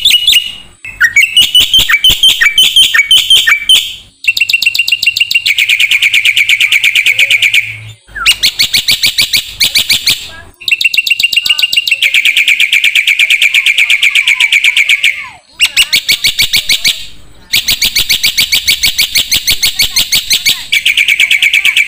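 Jalak (starling) song from a masteran training recording: loud phrases of fast, evenly repeated notes, each lasting a few seconds, with short breaks between them.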